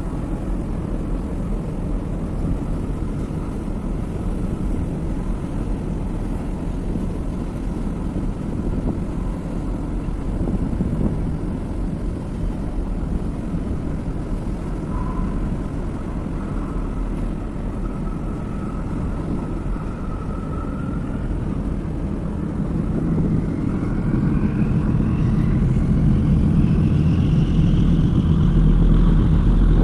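Deep steady rumble of a large dual-fuel container ship's engines under way, mixed with wind on the microphone. Over the last several seconds the low hum grows louder and a rising engine whine comes in.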